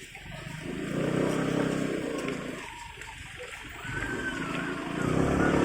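Motor vehicle engines going by, the sound swelling and fading twice.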